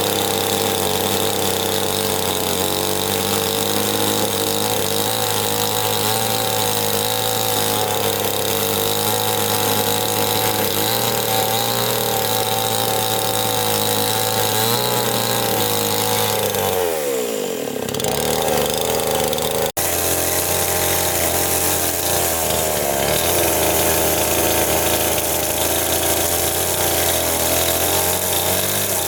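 A small engine or engine-driven power tool running steadily. About two thirds of the way through its pitch drops sharply and then returns.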